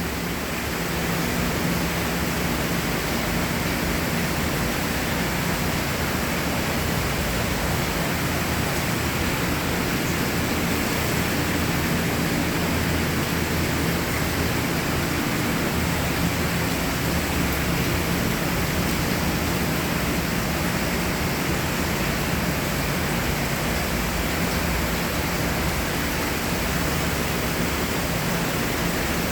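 Steady rushing water, an even, unbroken roar of a stream or river.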